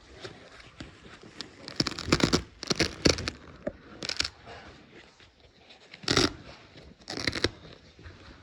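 Old seat upholstery being ripped off the seat-back foam in a series of hard pulls, Velcro strips tearing apart with each tug. The loudest rips come about two to three seconds in, with three more spaced out after.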